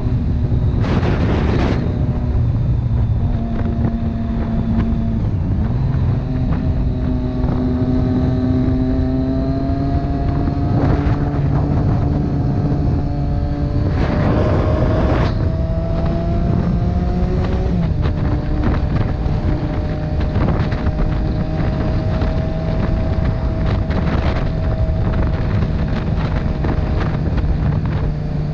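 Motorcycle engine running under way, its pitch climbing slowly and then dropping sharply about two-thirds through, under heavy wind rush on the microphone.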